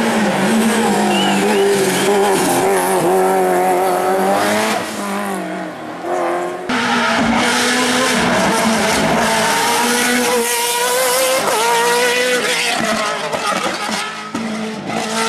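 Hill-climb race car engines at high revs, the pitch climbing and dropping again and again through gear changes. The sound changes abruptly about seven seconds in, as another car takes over.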